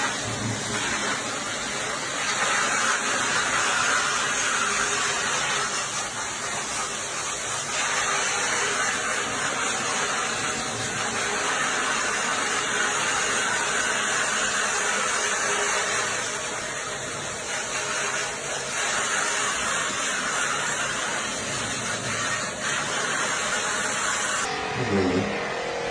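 Steady hissing spray from cleaning equipment, swelling and easing every few seconds. Near the end the hiss changes and a tonal sound comes in.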